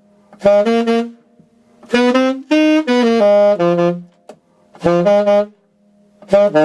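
Alto saxophone playing the blues riff in its low register, without the octave key: four short phrases of two to four notes each, with brief pauses between them.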